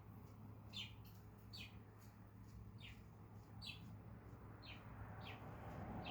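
Cockatiel giving a string of short, faint chirps, about one a second, each dropping quickly in pitch.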